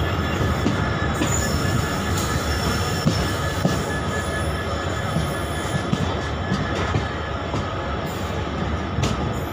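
Passenger train rolling slowly over station tracks, heard from on board: a steady rumble of wheels on rail with a thin, high wheel squeal over it and a few faint knocks.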